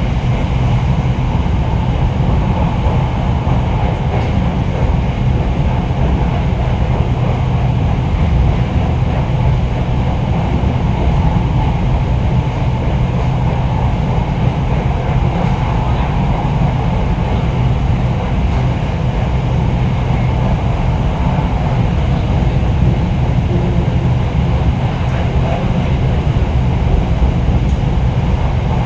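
Red Line electric commuter train running: a steady, even rumble of the wheels and running gear on the track, with a faint low hum.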